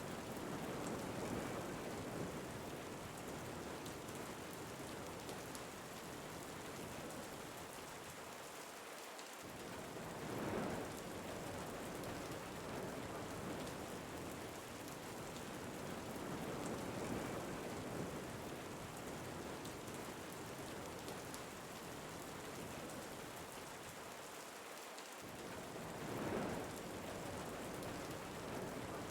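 Steady rain falling, with gusts of wind swelling up every several seconds; the same pattern repeats about every 16 seconds, as an ambient loop does.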